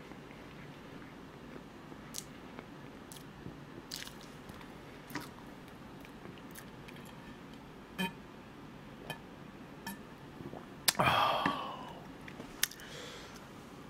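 A person chewing soft bread close to the microphone, with scattered small wet mouth clicks. About eleven seconds in comes a louder short noise that fades over a second, followed by a sharp click.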